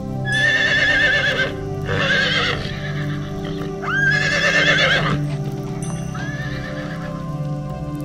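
A horse neighing, four quavering whinnies in a row, over steady background music.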